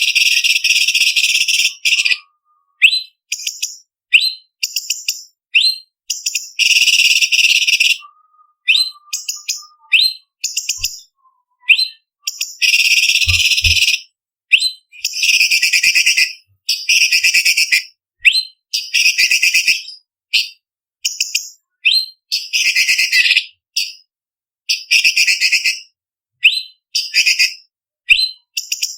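Orange-bellied leafbird singing: long, dense, harsh trills alternating with short, sharp whistled notes, in phrases broken by brief silent pauses.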